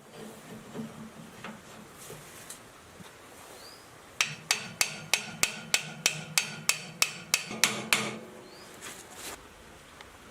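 A hammer striking metal in a quick, even series of about a dozen blows, roughly three a second, lasting about four seconds, each with a short ring.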